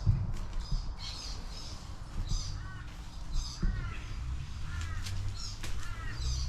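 Wild birds calling outdoors: short repeated calls, roughly one or two a second, some in quick pairs.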